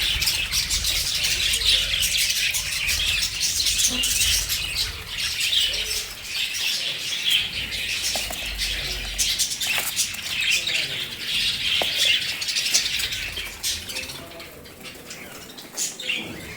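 Budgerigars chattering and chirping in a dense, continuous stream of high twittering, growing quieter near the end.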